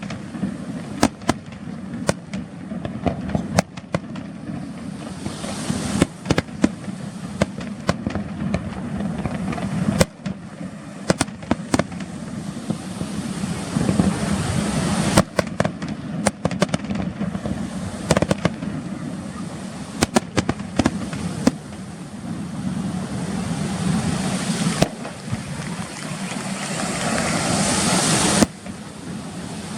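Fireworks display: irregular sharp bangs of aerial shells bursting, some in quick clusters, over a steady low background noise. Near the end a hissing crackle builds up and then cuts off suddenly.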